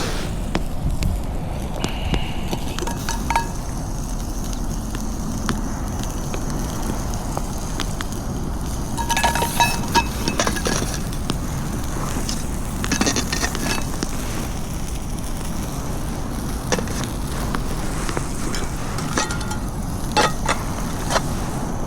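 Metal camp cookware and utensils clinking and knocking in short ringing clusters about nine, thirteen and twenty seconds in, over a steady low rumble of wind on the microphone.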